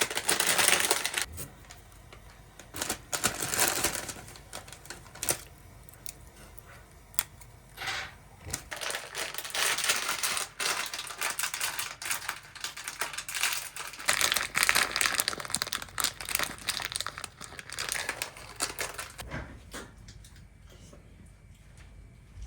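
Rustling and crinkling with scattered sharp clicks and knocks, in irregular bursts, as things are handled in a small room.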